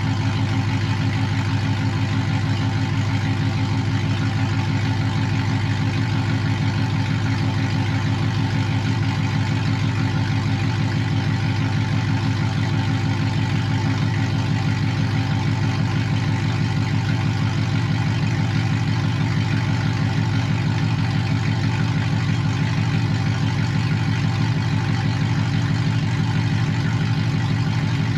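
Pickup truck engine idling steadily, warming up after a cold start, with an even, unchanging beat.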